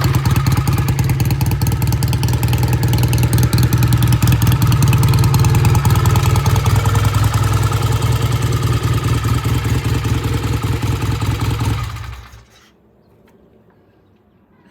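BSA A65 Lightning's 650 cc parallel-twin engine running steadily, then shut off about twelve seconds in. The bike had been hard to start and has had its pilot jets cleaned and its idle mixture set.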